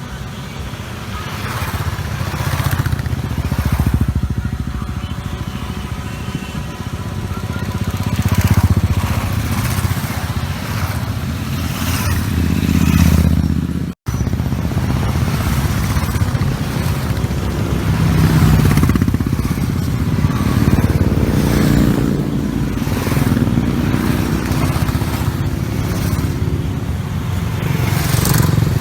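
Motorcycles riding past one after another, the engine sound swelling and fading as each goes by, with a momentary break about halfway through.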